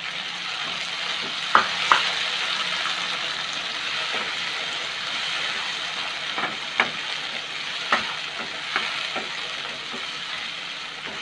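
Chopped tomatoes and onions sizzling in hot oil in a non-stick pan as a spatula stirs them, with a few sharp clicks of the spatula knocking against the pan.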